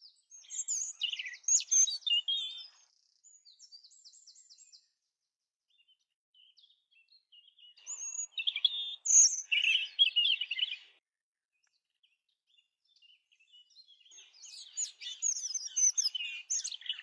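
European robin singing: varied, high twittering and trilling song phrases in three main bursts, with pauses of a few seconds between them. The middle burst is the loudest.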